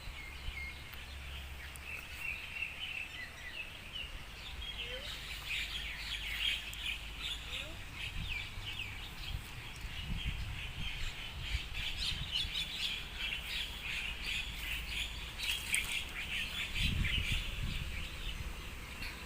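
Birds chirping and twittering, many short calls overlapping, busier from about five seconds in, with a few low rumbles now and then.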